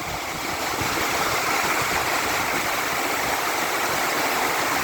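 Heavy rain pouring down, a steady dense hiss that swells slightly about half a second in.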